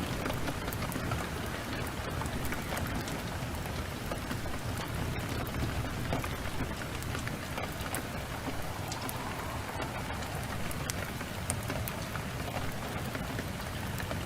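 Heavy rain pouring steadily, with scattered fine crackles from a wood fire.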